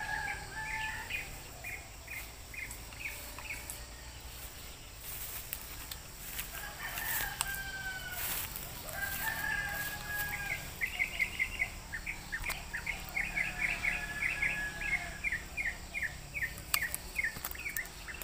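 Wild birds calling: quick series of short, high chirps, several a second, with a couple of longer, slightly falling calls in the middle. Brushing and handling noises come through for a few seconds partway through.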